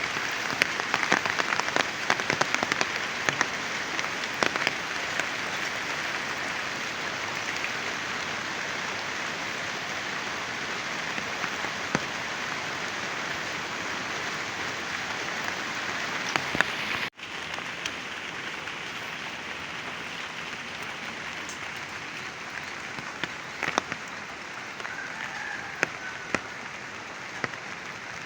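Heavy rain falling steadily, with sharp ticks of individual drops striking close by. About 17 seconds in there is a brief break, after which the rain continues a little quieter.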